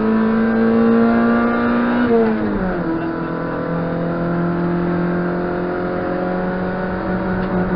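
Race-prepared car's engine heard from inside the cabin, revs climbing under acceleration, then dropping sharply about two seconds in at an upshift, and pulling again with slowly rising revs in the next gear.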